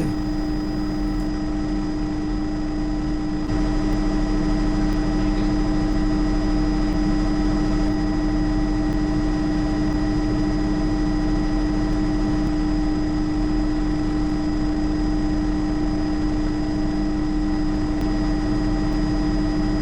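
Bell 206 JetRanger helicopter in forward flight, heard inside the cabin: steady drone of the turbine engine and rotors, with a strong constant hum and fainter high whines above it. It gets a little louder about three and a half seconds in.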